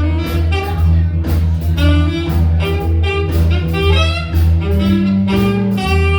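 Live blues band playing an instrumental stretch of a driving boogie: a pulsing bass line and drums under a pitched lead line that holds long notes.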